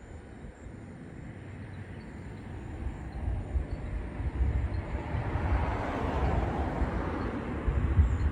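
A passing vehicle's rumble and rushing noise, growing louder from about three seconds in.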